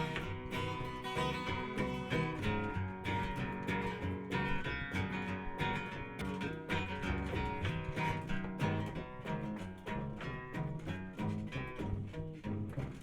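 Instrumental music: a guitar strummed and picked in a steady, busy pattern of quick notes, with no singing.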